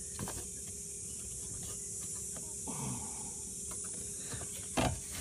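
Quiet handling noises of a boat tie-down strap being threaded and worked through its fitting on the trailer: light scattered clicks and one sharp knock near the end, over a steady high hiss.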